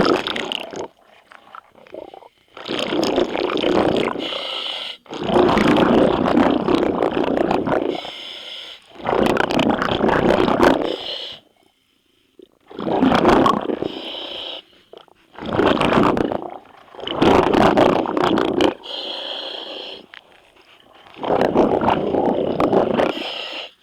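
Scuba diver breathing through a regulator underwater: a loud rushing hiss on each breath and a gush of exhaled bubbles, repeating every couple of seconds in a slow breathing rhythm.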